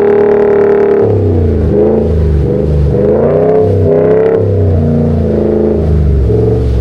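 Vehicle engine revving hard, held high for about a second, then its pitch rising and falling repeatedly.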